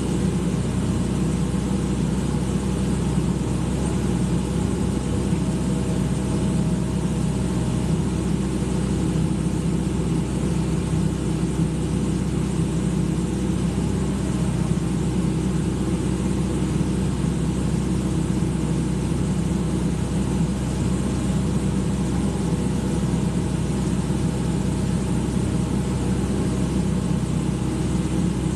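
Excavator's diesel engine running steadily at an even speed, with no revving.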